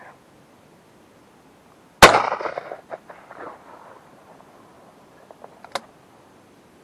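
A single shotgun shot about two seconds in, its report echoing away over about a second, followed by a few faint clicks and a sharper click near the end.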